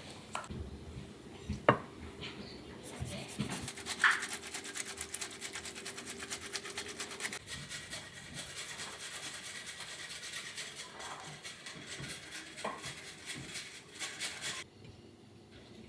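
Rapid, even scraping or rubbing strokes, with a few sharp knocks.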